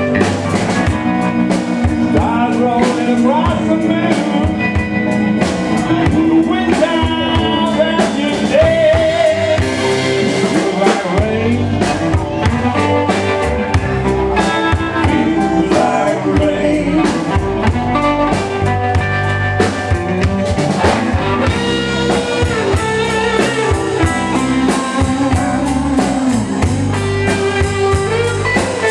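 Live band playing a slow blues number: drum kit, electric guitar, keyboard and bass guitar, with a voice singing over them.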